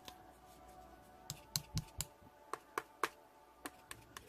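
Slime being pressed and poked by hand, giving about ten irregular sharp clicks and pops of trapped air, starting about a second in.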